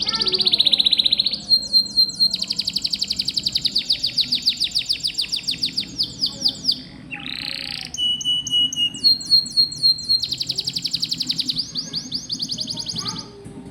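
Domestic canary singing long, rapid rolling trills, one trill type after another with short breaks between them, and a brief held high note about eight seconds in.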